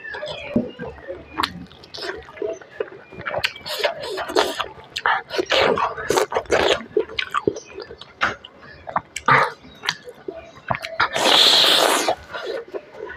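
Close-miked eating of smoked chicken by hand: chewing, lip-smacking and many small wet clicks. About eleven seconds in comes one loud hiss lasting under a second.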